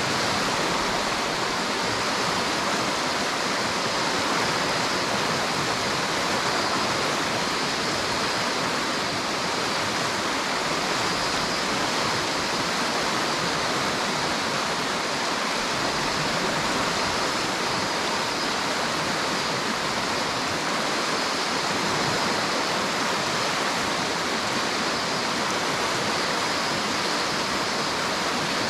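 River water rushing and splashing over rocks, a steady, even rush with no breaks.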